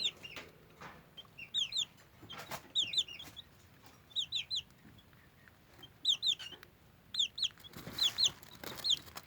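Young chicks (Serama and Silkie) peeping: short high peeps, mostly in quick pairs, repeating every second or so, with a few soft knocks in between.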